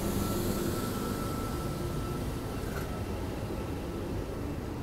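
V-set double-deck electric intercity train rolling slowly past at close range: a steady rumble and hum from the wheels and running gear, with a faint high whine that fades out about halfway and a single light click a little under three seconds in.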